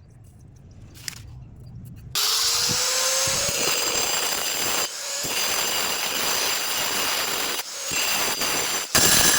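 Electric power tool cutting ceramic tile: it switches on about two seconds in, its pitch rising as the motor spins up, then runs with a steady whine and grinding hiss, dipping briefly twice.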